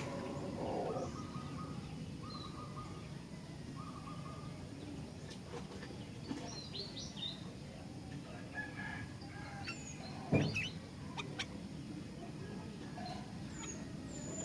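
Sooty-headed bulbul (kutilang) calling: three short whistled notes in the first few seconds, then scattered short high chirps. A single knock about ten seconds in.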